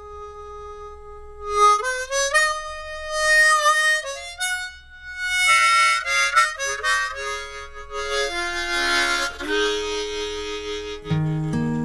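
Harmonica playing a slow instrumental intro of long held notes and chords. Lower acoustic guitar notes come in near the end.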